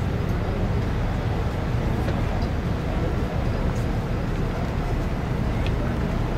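Steady low engine rumble, with faint voices in the background.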